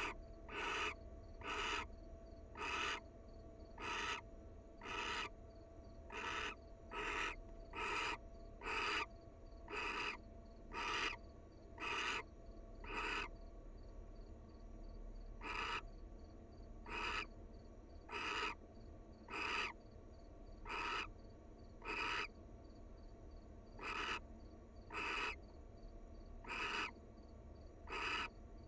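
Barn owl giving a long series of short, harsh hissing calls, about one a second, with two brief pauses along the way.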